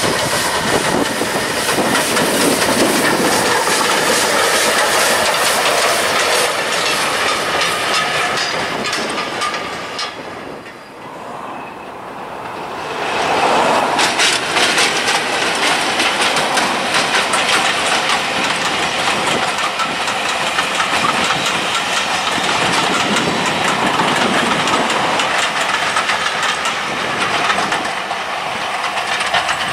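A GNR N2 steam tank locomotive runs past hauling coaches. After a short break about eleven seconds in, a Class 20 diesel locomotive and a long train of coaches pass, their wheels clattering over the rail joints.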